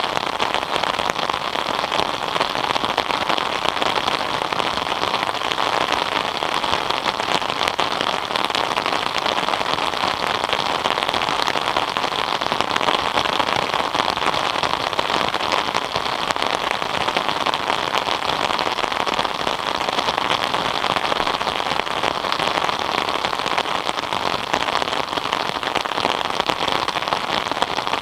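Steady rain falling and pattering on surfaces, a dense even hiss of countless drops.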